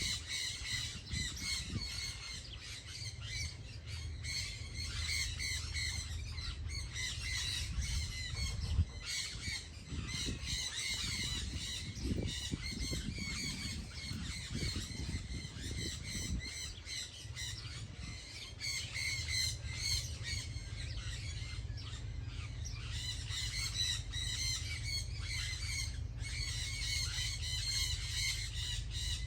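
A dense chorus of many birds calling at once, short overlapping calls in continuous chatter, over a steady low rumble.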